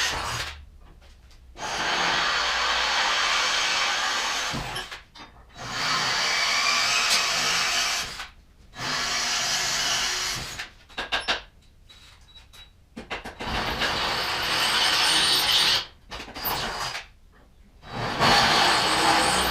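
Power tool running in repeated bursts of two to three seconds, separated by short pauses.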